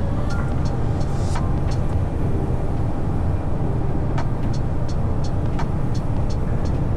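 Steady low vehicle engine rumble, with a quick, regular high ticking over it.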